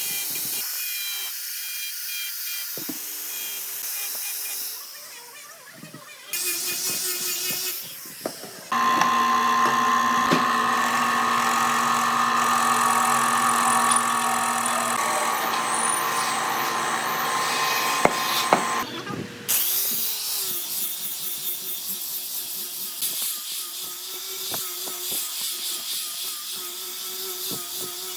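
Power tools working wood in a run of short, separate stretches: a hissing stretch, then a machine running steadily with a high tone for about ten seconds, then rougher, uneven tool noise.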